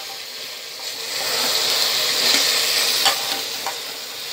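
Mutton and chopped tomatoes sizzling in an open pressure cooker while a metal spoon stirs them, with a few light clicks of the spoon against the pot. The sizzle swells about a second in.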